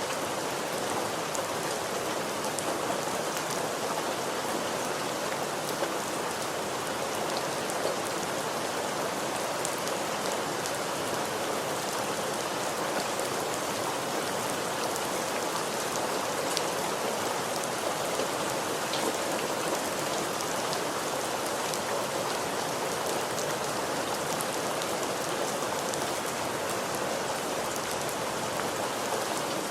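Steady rain falling on a surface, an even hiss with many fine droplet patters.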